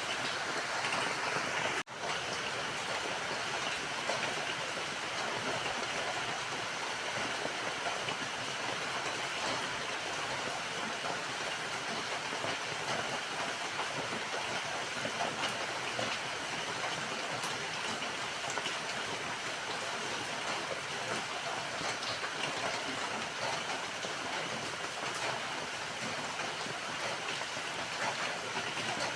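Steady rain falling, a dense even hiss with scattered individual drop ticks. The sound cuts out for an instant about two seconds in, then resumes.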